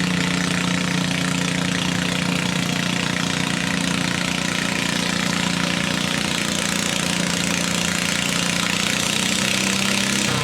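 Engine running steadily at a constant speed, with a slight shift in pitch near the end.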